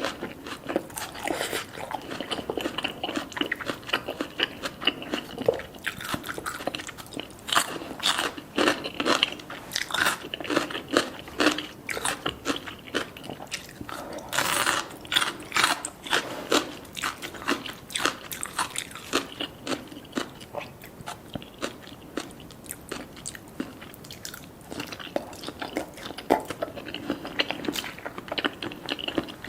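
Crunchy biting and chewing: many short, irregular crunches and crackles.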